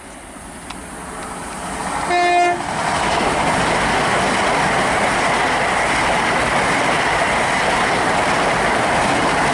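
A Great Western Railway Class 800 IET train approaches at speed and gives a short horn blast about two seconds in. It then passes close by with a loud, steady rush of wheels and running noise.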